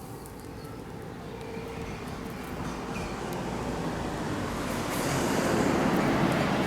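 Rumble of a passing vehicle, swelling gradually and loudest near the end.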